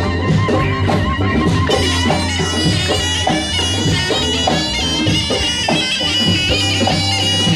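Tunisian mezoued bagpipe playing a wavering folk melody over a steady low drone, with hand-drum beats.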